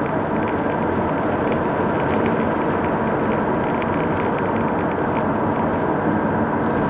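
Steady, loud vehicle noise of engines and tyres on the road, with no single event standing out.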